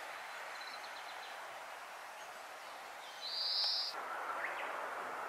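Wild birds calling over a steady hiss: a few faint high trills in the first second, a loud short buzzy call about three seconds in, then a brief rising chirp.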